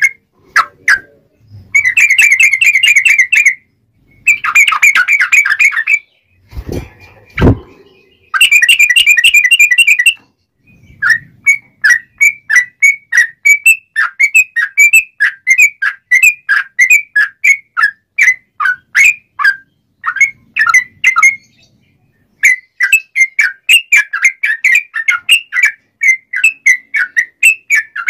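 Yellow-vented bulbul song: first several loud, rapid trilled phrases of about two seconds each, then from about eleven seconds in a long series of short repeated whistled notes, two or three a second. A brief low thump comes about seven seconds in.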